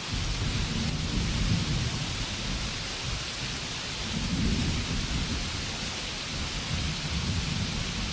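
Steady rainfall with thunder rumbling low underneath, swelling about a second and a half in and again around four and a half seconds.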